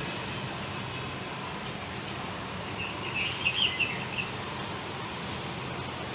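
A small bird chirping, a short run of high notes about three seconds in, over a steady background hiss.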